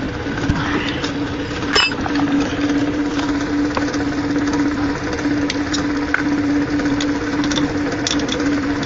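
A small motor running steadily with a constant even hum, with scattered short metallic clicks and taps; one sharper tap comes about two seconds in.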